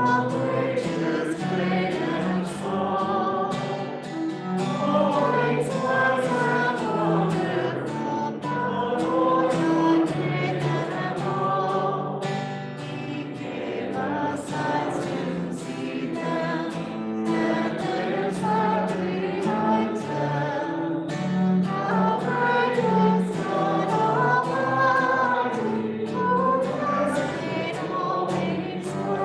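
Several voices singing a hymn together in a choir, held notes moving in a continuous melody.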